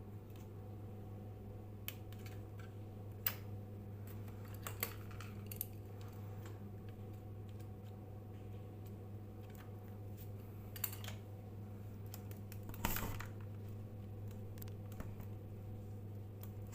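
A steady low electrical hum, with light clicks and knocks every so often, as of small parts or tools being handled.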